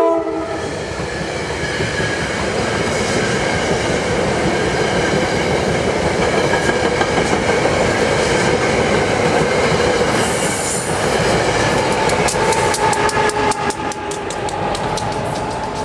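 SEPTA electric push-pull commuter train passing close by at speed, with a cab car leading and an AEM-7 locomotive at the rear. The last of a K5LA air-horn blast cuts off right at the start, then there is a steady rush of wheels on rail. Over the final few seconds comes a fast run of clicks as the wheels cross rail joints.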